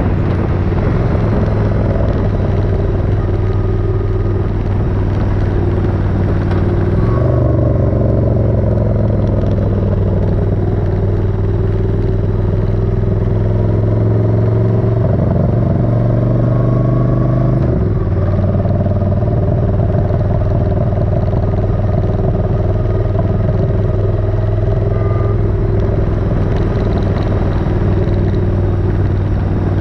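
Suzuki Intruder 1400's V-twin engine running under way on the road. The engine note changes abruptly about seven seconds in and again about eighteen seconds in.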